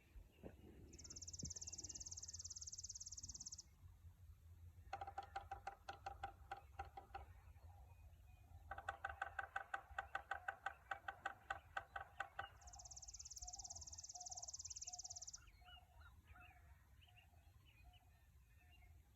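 Woodpecker hammering on a wooden electric pole: two bouts of sharp knocks, about five or six a second, each knock with a hollow ring from the pole.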